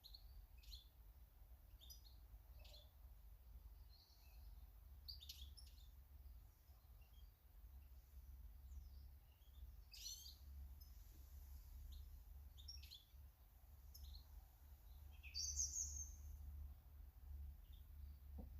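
Faint garden birds calling: scattered short, high chirps and twitters throughout, with a louder burst of chirping near the end, over a steady low rumble.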